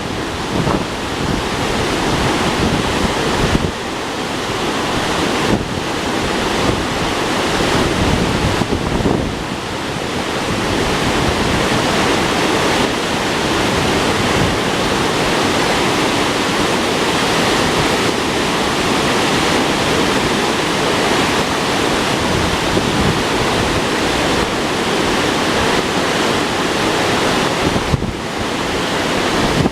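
A river swollen with floodwater rushing hard, a steady loud noise of fast water, with wind buffeting the microphone in gusts.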